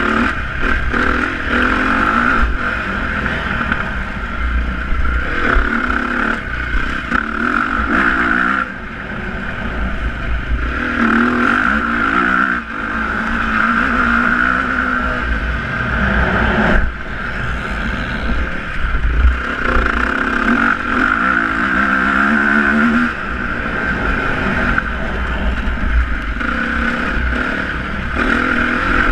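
Motocross bike engines running and revving, their pitch rising and falling repeatedly, over a steady low rumble.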